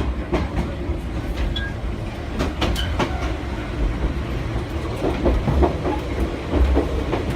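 Choshi Electric Railway train running along the track, heard from inside the car: a steady low rumble with rattling clicks of the wheels over rail joints.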